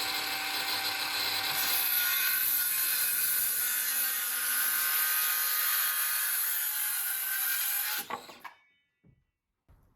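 Electric power saw cutting through a wooden post, a steady cut lasting about eight seconds that stops about eight seconds in as the blade runs down.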